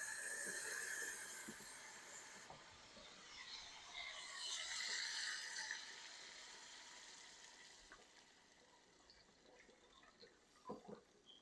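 Water running into a pot in two spells of a couple of seconds each, then a couple of faint clicks.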